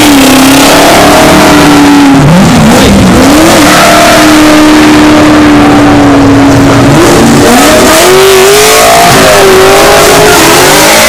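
A car doing a burnout, its engine held at high revs and loud, the revs dipping and climbing again about two seconds in and rising in glides near the end.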